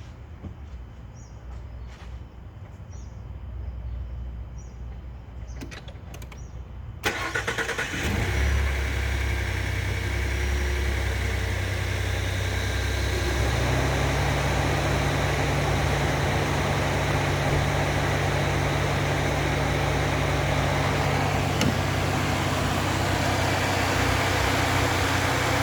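Ford 3.5-litre EcoBoost twin-turbo V6 cranked and started about seven seconds in, catching within a second and settling into a steady idle, with its oil freshly dosed with a friction-reducing additive. The low note of the idle steps up about halfway through.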